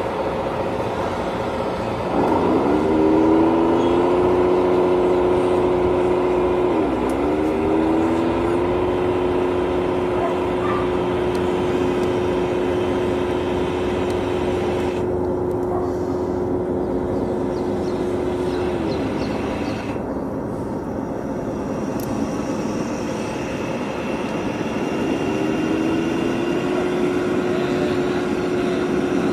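Heavy truck engine running over steady road and wind noise. Its pitch climbs about two seconds in, dips briefly and climbs again as if through a gear change, then holds steady. The engine tone drops away past the middle and climbs again near the end.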